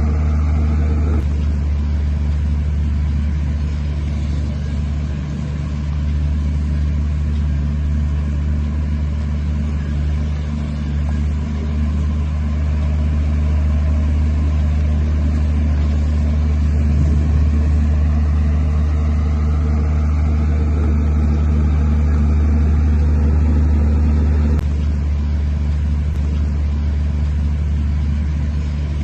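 Large diesel engine of heavy earthmoving machinery running steadily under load, a deep continuous drone. The sound changes abruptly about a second in and again near 25 seconds.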